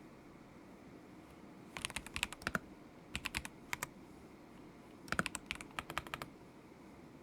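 Typing on a KZZI K75 Pro mechanical keyboard with Moment linear switches: three short runs of quick keystrokes, at about two, three and five seconds in, with pauses between.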